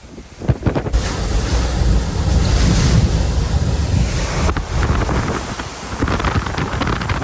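Hurricane-force wind gusting and buffeting the microphone with a heavy rumble, swelling about a second in and easing somewhat past the middle.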